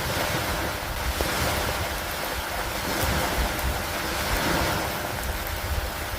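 Steady heavy rain, a dense, even hiss that swells and eases every couple of seconds.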